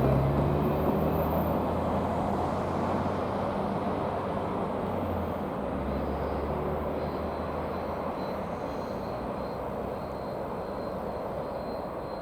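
Freight-style train with an EMD SD40-2 diesel locomotive rolling past and moving away: the locomotive's low engine note and the rumble of the wheels fade steadily, with a drop in pitch near the start as it goes by.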